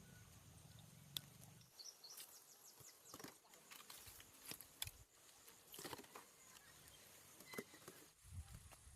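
Near silence: faint outdoor ambience with scattered light ticks and a low hum in the first second or two.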